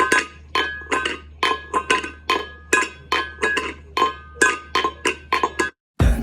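A rhythmic run of short, bright ringing clinks, about three to four a second, over a low steady hum. It breaks off near the end, and after a brief gap louder, denser music cuts in.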